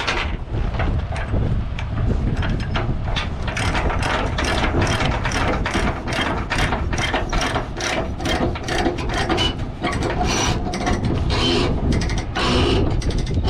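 Ratchet chain binder being cranked to tighten a tie-down chain, its pawl clicking in an even run of about two to three clicks a second.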